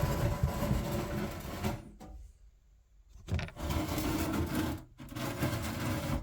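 Rough rubbing and scraping handling noise in three long stretches with short quiet gaps between them.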